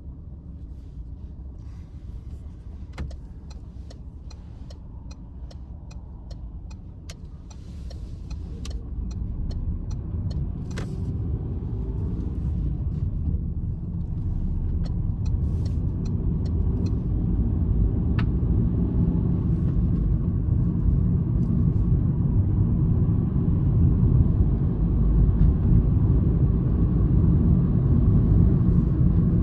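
Citroën C-Elysée's 1.2 PureTech three-cylinder petrol engine and road noise heard from inside the cabin: quiet at first with scattered sharp clicks, then building steadily louder from about a quarter of the way in as the car accelerates hard.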